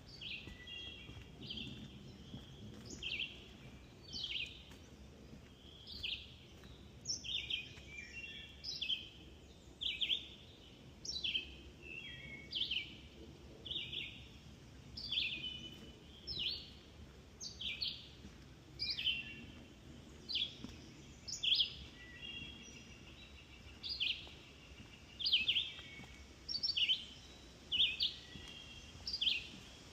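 Songbirds singing, short high phrases repeating about once a second over a faint low background hum.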